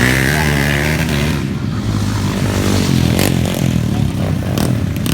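Underbone motorcycle engine revving hard, its pitch rising and falling as the rider works the throttle, with a few sharp clacks in the second half.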